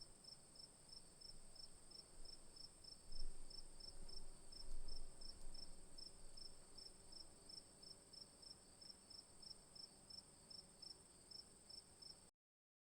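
Insect chorus: a steady high-pitched buzz with a rhythmic chirp repeating about three times a second, and two brief low rumbles about three and five seconds in. The sound cuts off suddenly near the end.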